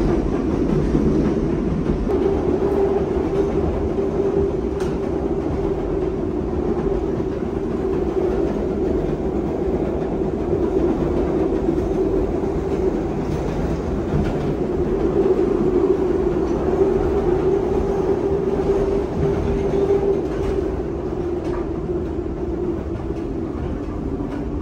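CTA Blue Line train running along the track, heard from inside the car. It makes a steady rumble with a droning hum and a few faint clicks from the rails.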